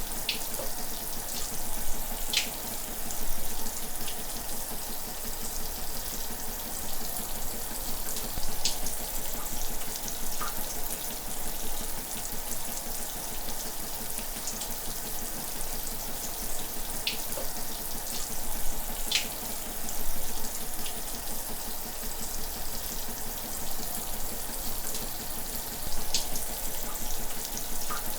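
Shower running steadily, water spraying with an even hiss and a few brief, sharper splashes now and then.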